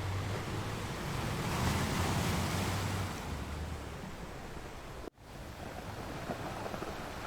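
Ocean surf washing on a shore, one wave swelling and breaking about two seconds in, with a low wind rumble on the microphone. About five seconds in the sound cuts out for an instant and then resumes.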